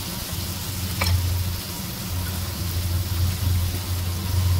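Chopped onion and green chilli sizzling in hot oil in a kadhai, with one sharp clink about a second in. A low hum swells and fades underneath.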